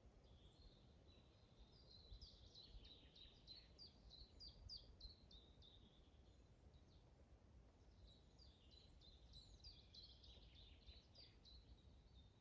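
Faint songbird singing in a forest: two long runs of quick, high chirping notes, the second starting about eight seconds in. A low wind rumble sits underneath.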